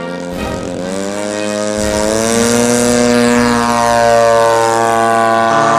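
Propeller aircraft engine running, its pitch climbing steadily over the first few seconds and then holding high with a slight sag near the end, like a power-up or pass.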